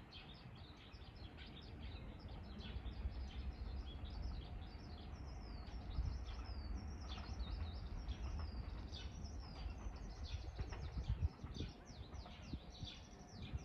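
Small birds chirping in a quick run of short, falling chirps, over a low steady background rumble.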